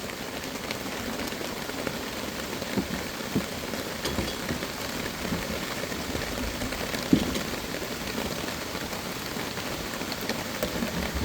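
Steady rain falling on a tarp overhead, with a few short sharp taps, the strongest about seven seconds in.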